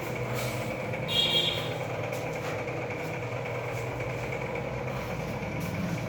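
Steady low mechanical hum, with a brief high-pitched sound about a second in.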